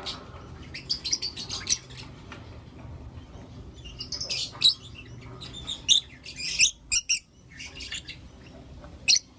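Lovebirds giving short, shrill chirps in quick clusters, with brief pauses between the bursts.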